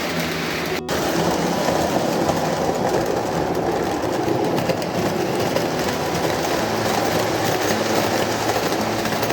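Lionel Fairbanks-Morse Train Master O-gauge model diesel locomotive running steadily on a toy train layout: motor hum with wheels clattering over the track. There is a brief break in the sound just under a second in.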